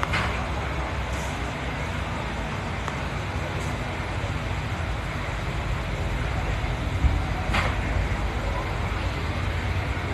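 Steady low outdoor rumble of park ambience with no train whistle in it, broken by two brief knocks, one right at the start and another about seven and a half seconds in.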